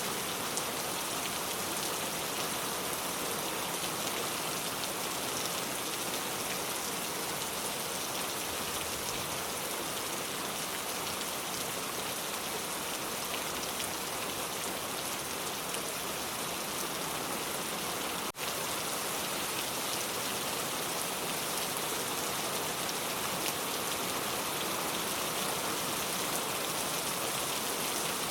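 Steady rain falling in an even, dense patter, with a split-second dropout about two-thirds of the way through.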